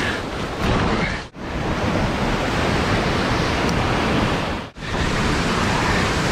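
Steady rush of whitewater from a creek's waterfall and rapids. It cuts out for an instant twice.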